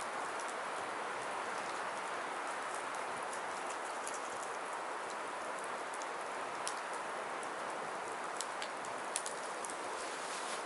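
Firewood burning: a steady hiss with scattered small crackles and a few sharper pops in the second half.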